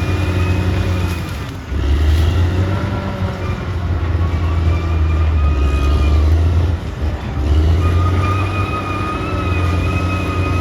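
Caterpillar D6R XL bulldozer's diesel engine working under changing load. Its low drone drops briefly about a second and a half in and again around seven seconds, with a high thin whine over it that comes and goes.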